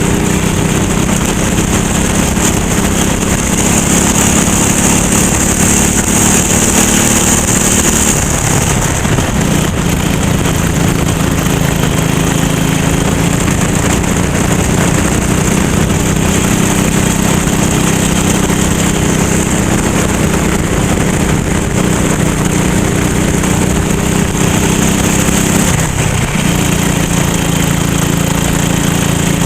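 Go-kart engine running hard at race pace, with a steady drone. Its pitch drops briefly about eight seconds in and again near the end as the throttle is lifted, then picks up again.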